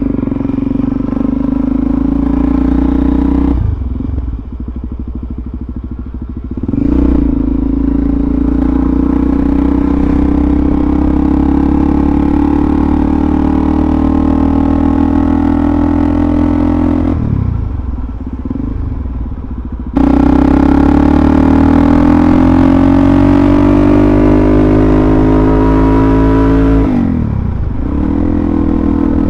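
Suzuki DRZ400SM's single-cylinder four-stroke engine running under way. Twice the throttle is rolled off and the note falls before picking back up. Past halfway the engine pulls with its pitch climbing steadily for several seconds before easing off near the end.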